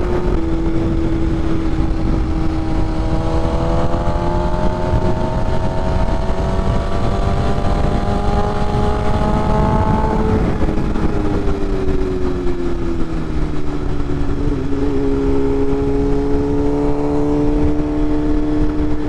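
BMW S1000RR inline-four engine running at road speed, with wind and road rumble. Its pitch climbs slowly for about ten seconds, drops, then settles and holds steady.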